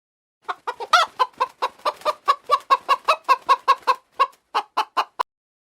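Chicken clucking: a quick run of short clucks, about five a second, that stops just after five seconds in.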